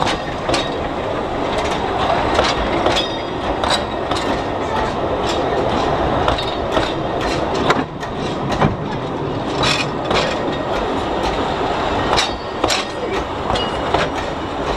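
Narrow-gauge railway passenger carriages rolling past close by: a steady rumble of wheels on rails, with clicks and knocks at uneven intervals as the wheels cross rail joints.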